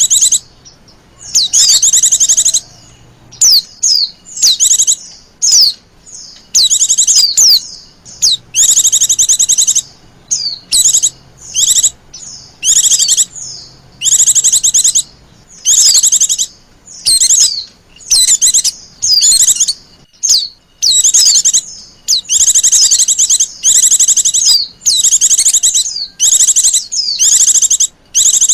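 White-eye (pleci) song from a lure recording: loud, high-pitched, fast chattering warbles in bursts of about a second, repeating with short gaps. This is the busy 'pleci ribut' call played to draw in wild white-eyes.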